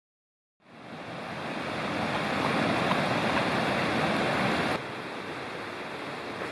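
Steady rushing noise of water or heavy rain, fading in just under a second in and then dropping suddenly to a quieter level near the end.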